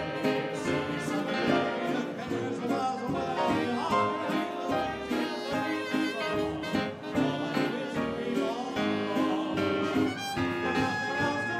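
A big dance orchestra playing 1930s-style swing dance music, with violins among the instruments and a steady beat.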